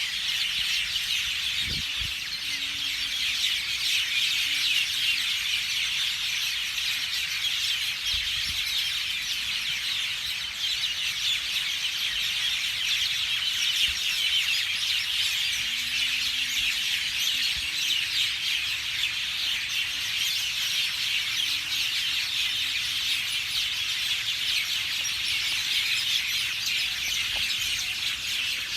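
Many small birds chirping at once, a dense, steady chatter of high calls.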